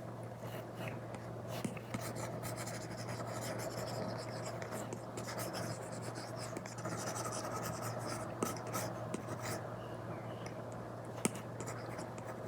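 Apple Pencil tip scratching across an iPad screen fitted with a paper-feel screen protector, in a run of quick drawing strokes with light taps, two of them sharper later on. A steady low hum sits underneath.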